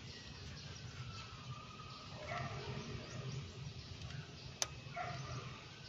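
Faint background bird calls over a low steady hum, with one sharp click about three-quarters of the way through.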